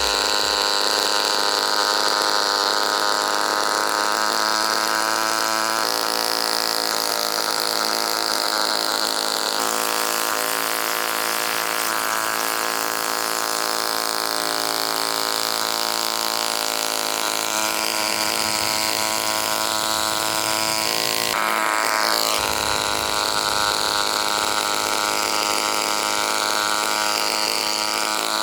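Homemade mini gasoline engine running steadily, its note shifting a few times as the speed changes.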